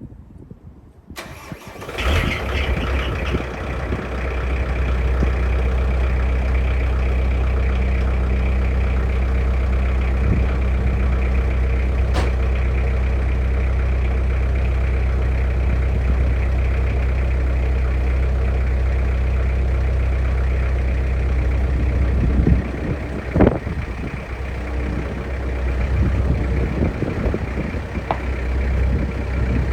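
Bobcat 763 skid steer's diesel engine cranking and catching about two seconds in, then idling steadily. A short knock and a brief dip in the engine sound about three quarters of the way through.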